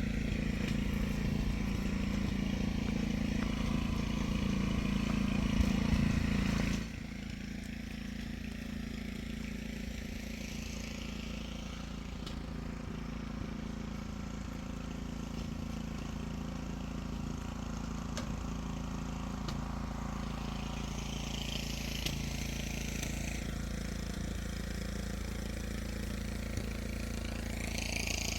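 An engine running steadily, loud for the first seven seconds, then dropping abruptly to a quieter, steady engine hum.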